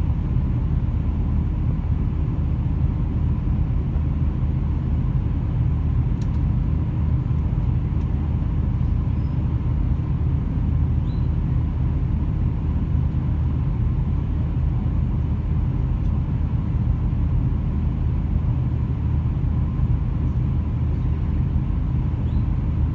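Diesel train running steadily: a constant low engine hum and rumble heard from inside the carriage, with a few faint high chirps over it.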